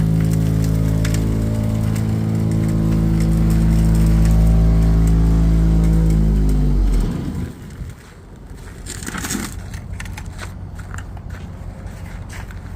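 An engine running steadily, then shut off about seven seconds in, its pitch sagging briefly as it winds down. Afterwards come quieter crunching and scraping sounds with scattered clicks.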